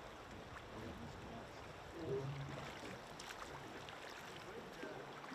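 Faint, steady rush of river current around a boat, with a brief low sound about two seconds in.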